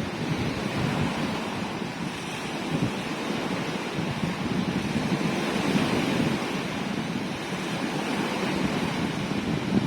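Sea waves washing in as a steady surf noise that swells about halfway through, with wind buffeting the microphone.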